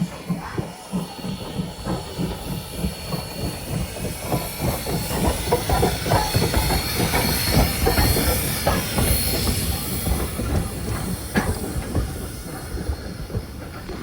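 Steam-hauled passenger train rolling along, heard from on board: wheels clattering over the rails in quick, uneven knocks, with a steady hiss and a thin high whine, both louder in the middle.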